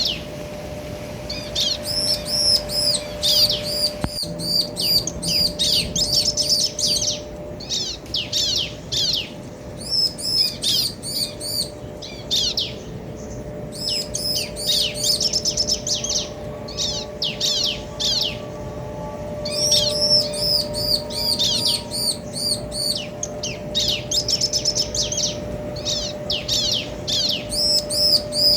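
Bar-winged prinias, male and female, calling back and forth in rapid bursts of high, quick chirping notes separated by short pauses. A faint steady hum runs underneath.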